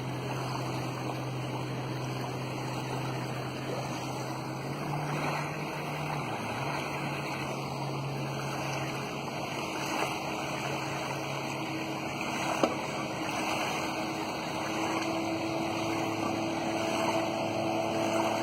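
A boat motor running steadily with a low hum, its pitch rising briefly about five seconds in and then settling back, over a wash of water and wind noise; two small sharp knocks come in the second half.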